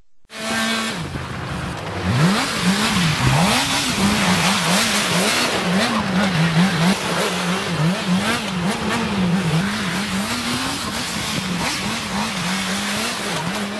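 Motorcycle engine revved up and down over and over, its pitch rising and falling about once a second, with the steady hiss of tyres sliding on ice as the bike is drifted.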